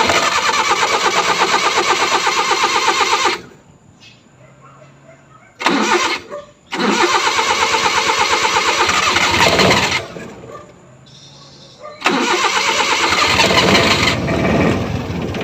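Suzuki F6A three-cylinder engine being cranked by its starter in four separate attempts, each a fast, even pulsing that stops after a few seconds, with pauses between. This is the hard-starting fault the engine has, along with its carburetor popping.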